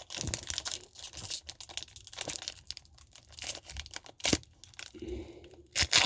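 Foil wrapper of a Pokémon TCG booster pack being torn open and crinkled in the hands: irregular crackling and tearing, with a few sharper crackles near the end.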